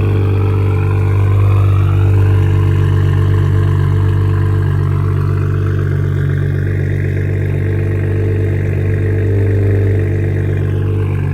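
BMW 540i's B58 turbocharged inline-six, with a catless downpipe and straight-piped exhaust, idling with a loud, steady drone shortly after start-up. The level swells slightly about two seconds in.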